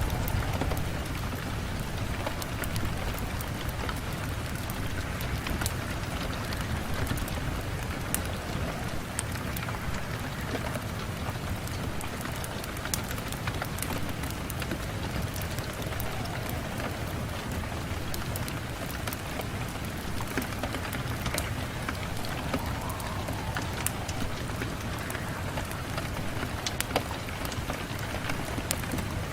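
Steady rain on a window glass, a continuous even hiss dotted with many small sharp taps of individual drops.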